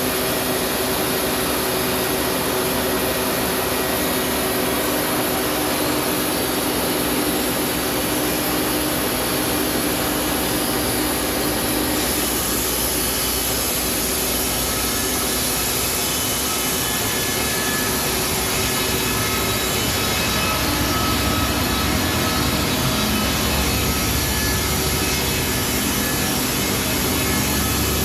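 Band sawmill running steady and loud, its band blade cutting a roughly 20-foot log. About twelve seconds in the sound turns brighter and hissier.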